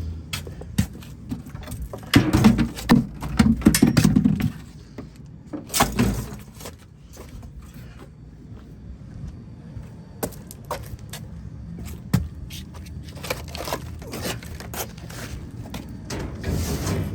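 Trash and a bucket being picked up and moved: irregular knocks, clatter and scraping, with a louder rumbling stretch about two seconds in.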